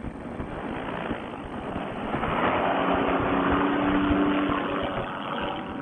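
Paramotor engine and propeller running up to high throttle for takeoff, growing louder about two seconds in and easing slightly near the end.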